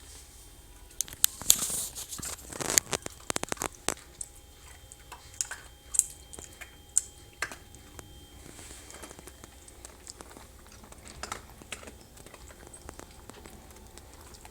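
Maltese puppies crunching and chewing dry kibble: a run of sharp, irregular crunches and clicks, thickest a second or so in and thinning out to scattered crunches later.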